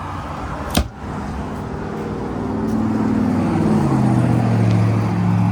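A motor vehicle's engine running, getting louder while its pitch drops and then holds steady. There is a single sharp click near the start.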